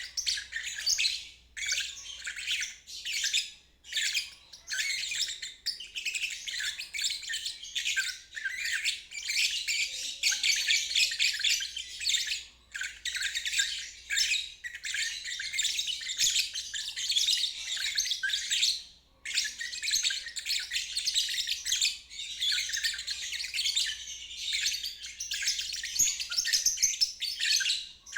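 Lovebird chattering in a fast, almost unbroken stream of high squeaky chirps, the 'ngeriwik' song, with short breaks every few seconds.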